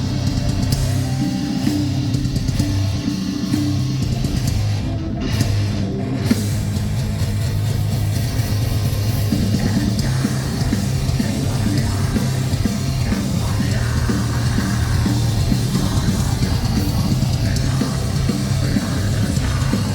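Metalcore band playing live: heavily distorted electric guitars, bass and drums at full volume.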